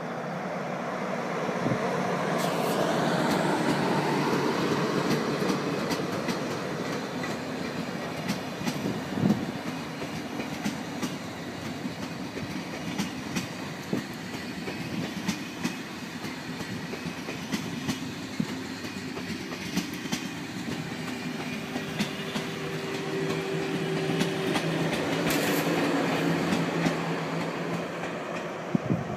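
SNCF TGV high-speed train passing at speed: a rushing rolling noise that builds over the first few seconds, with wheels clacking over the rails as the carriages go by. The noise swells again near the end as another TGV passes.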